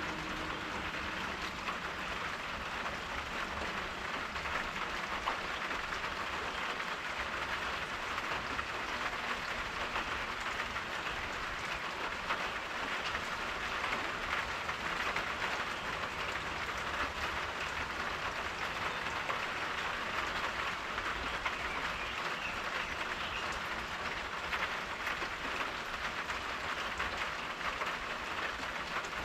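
Steady rain falling: an even hiss of many fine drops that does not change.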